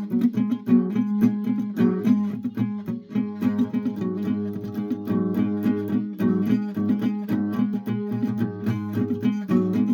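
Guitar being played: a steady run of plucked notes.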